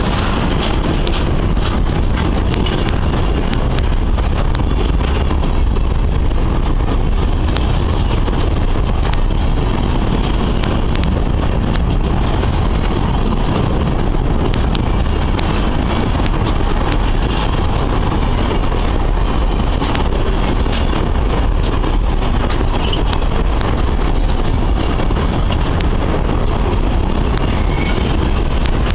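Freight train of empty grain wagons hauled by ALCo RSD35 diesel locomotives, rolling steadily. It makes a continuous heavy rumble with scattered sharp clicks and clanks.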